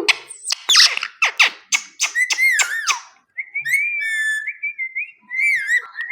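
Indian ringneck parrot calling: a quick run of sharp chattering notes for about three seconds, then wavering whistles that hover around one pitch.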